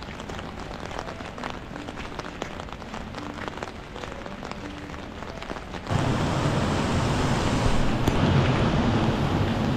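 Rain pattering steadily, with many small drop impacts. About six seconds in, a sudden cut brings a louder, steady rushing noise like wind or running water.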